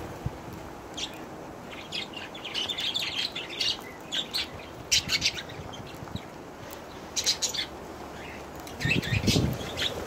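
Aviary budgerigars chirping and chattering in short, scattered bursts, with a low rumbling noise coming in near the end.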